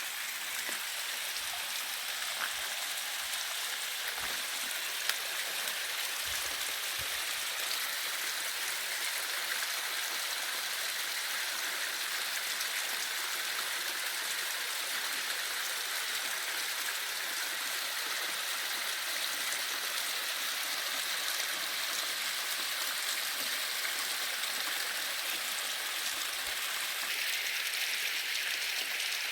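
Running water of a mountain stream, a steady, even rush. A light knock sounds about five seconds in.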